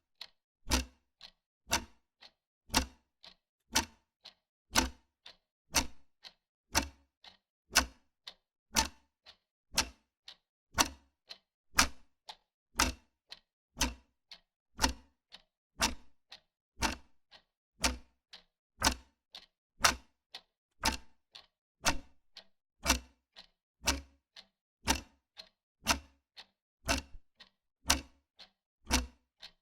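Wall clock ticking steadily: a stronger tick about once a second alternating with a softer one between, an even tick-tock.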